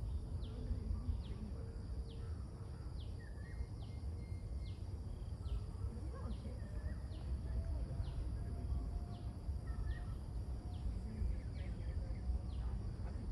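A bird repeating a short, high, falling chirp about every 0.8 s over a low steady rumble, with a faint tone slowly rising through the middle.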